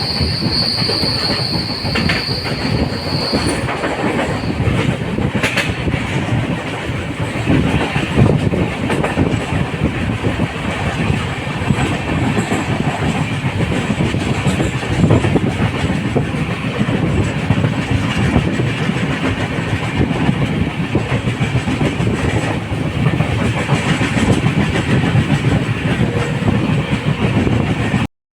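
LHB passenger coach running on the track: a steady, loud rumble and clatter of the wheels over the rails. A high, steady wheel squeal sounds over it at first and fades out about four seconds in.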